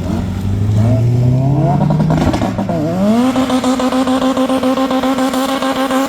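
A car engine being revved hard, with no one speaking. It blips up and down for the first few seconds. At about three seconds it climbs to high revs and holds there with a rapid pulsing flutter, then drops back as it ends.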